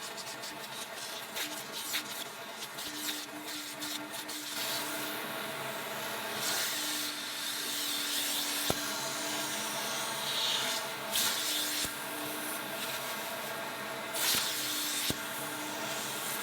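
Continuous scrubbing and rubbing against a surface, with short louder strokes. A steady machine hum starts and stops several times underneath.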